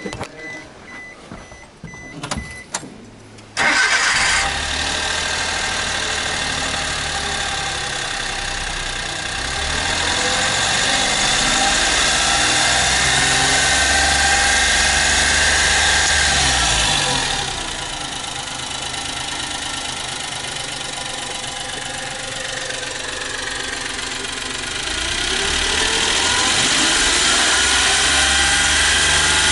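Suzuki Every Join Turbo's 660 cc turbocharged three-cylinder engine started: a repeating warning beep and a few clicks, then the engine catches about three and a half seconds in and runs. Its speed rises and is held for several seconds in the middle, falls back to idle, then rises again near the end.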